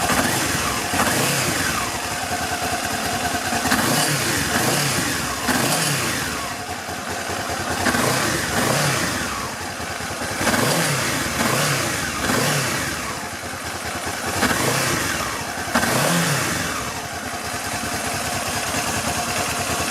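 Honda CBF500 motorcycle's parallel-twin engine being revved in repeated throttle blips, its pitch rising and falling every one to two seconds.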